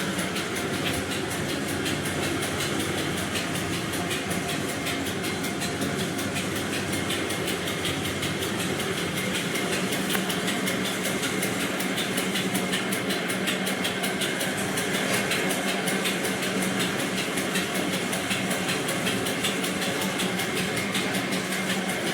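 A steady mechanical running noise with a fast, even clatter, like a vehicle or rail car in motion.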